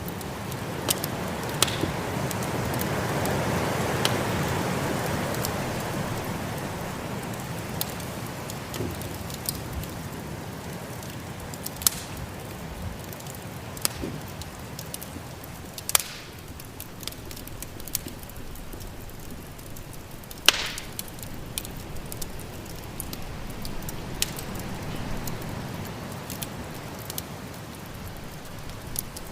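Wood fire crackling with scattered pops, over a steady rush of storm wind that swells for a few seconds near the start and then eases; one louder pop about twenty seconds in.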